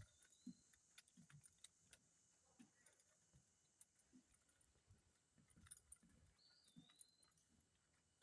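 Near silence, with faint footsteps on a trail and a bird's short whistled call twice.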